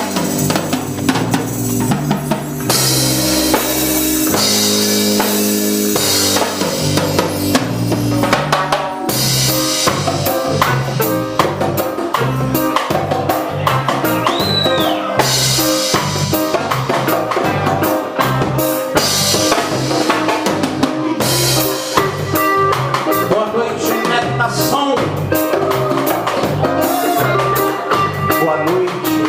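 A reggae band plays an instrumental passage with no vocals, led by drum kit and bass. About halfway through comes a short high tone that rises and falls.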